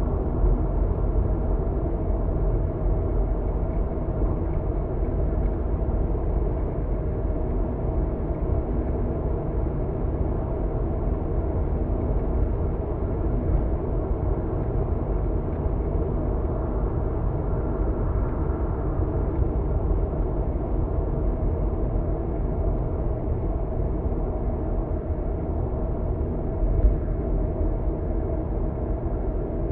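Steady road and engine noise of a car driving on an expressway, heard from inside the car: a low rumble with a faint hum, and a brief thump near the end.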